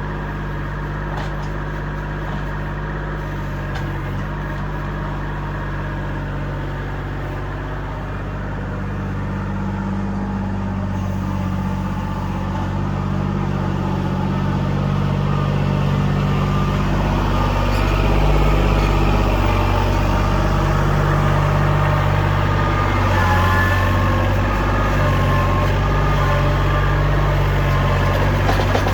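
Kubota L2501 compact tractor's diesel engine running steadily, then revving higher and working harder from about ten seconds in, loudest near the end as the tractor works under load.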